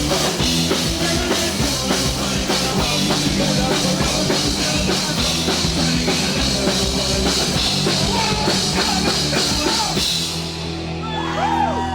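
Rock band playing with a full drum kit. The drums stop about ten seconds in and a held low chord rings on.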